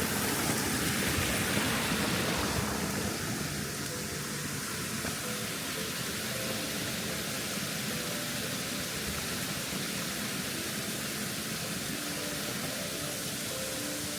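Steady rush of falling water from a waterfall, a little louder for the first two or three seconds and then even.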